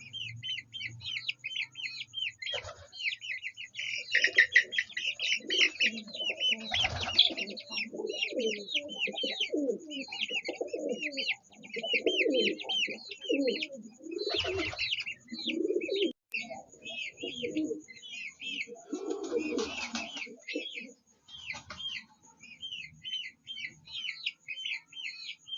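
A brood of baby chicks peeping continuously in rapid, high chirps. For much of the time a hen's low clucking calls run underneath.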